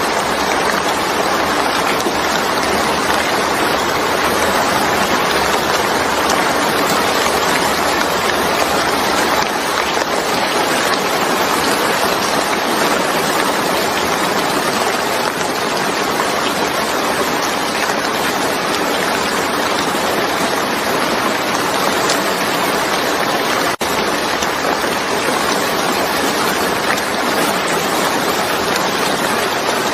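Steady heavy rain falling, an even unbroken hiss, with a momentary break about 24 seconds in.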